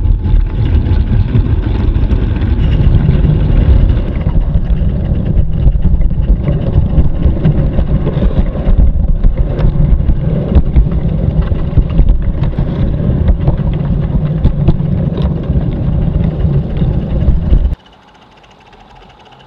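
Steady low rumble and rattle of a moving garden-railway train, picked up by a camera riding on it, with scattered sharp clicks. It cuts off abruptly near the end, leaving only a faint background.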